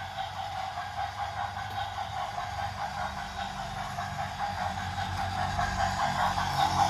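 Train running along the track: a steady rumbling clatter with a hiss over it, getting louder near the end.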